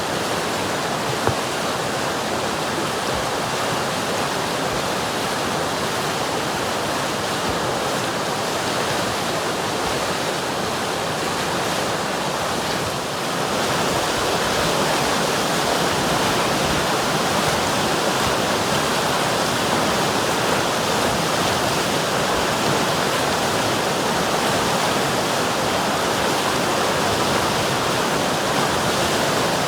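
River water rushing steadily, a dense even rush of flowing water, a little louder from about halfway through.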